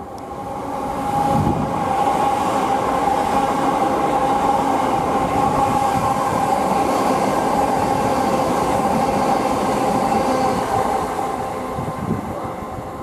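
Electric multiple-unit passenger train running past on the line. Its noise builds over the first second or two, holds steady with a high whine over the rumble of the wheels, and eases off near the end.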